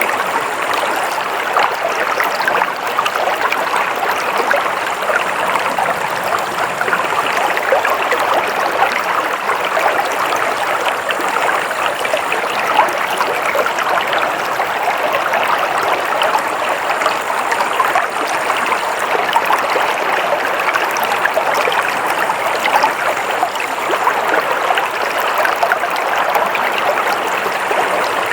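Flowing stream water running steadily, a continuous babbling rush with fine splashy crackle.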